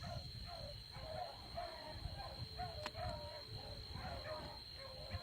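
Pack of beagles baying in the distance while running a rabbit, short overlapping calls repeating several times a second.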